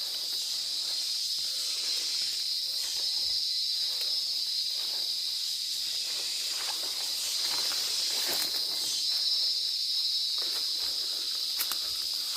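Steady high-pitched drone of rainforest insects such as cicadas, holding one even pitch, with a few faint crackles and snaps scattered through it.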